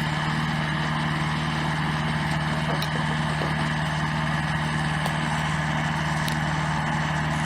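An engine running steadily at a constant speed, a low, even hum with a few faint clicks over it.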